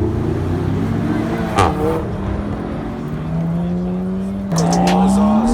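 Car engine running steadily, then its pitch steps up and climbs near the end as it is revved.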